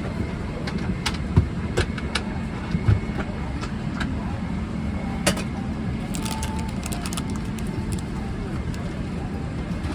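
Steady low rumble of a Boeing 777-300ER's cabin air and aircraft systems, with scattered sharp clicks and knocks from the cabin.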